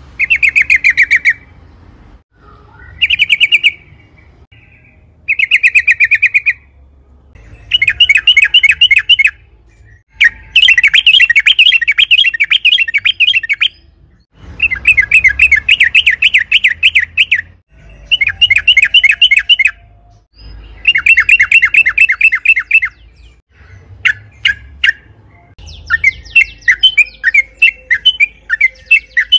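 Yellow-vented bulbul singing: repeated phrases of quick chattering notes, each one to three seconds long with short pauses between. Near the end the phrases break into separate sharp notes.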